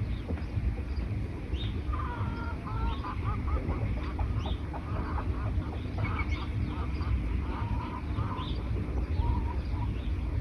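Forest birds calling: short high chirps repeat every second or so, and a rapid run of lower calls comes in about two seconds in and stops after a few seconds. A steady low rumble runs underneath.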